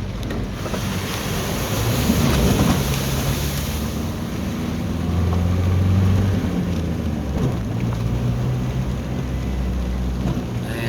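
Car driving on wet roads, heard from inside the cabin: a steady engine hum with the broad hiss of tyres on water underneath it.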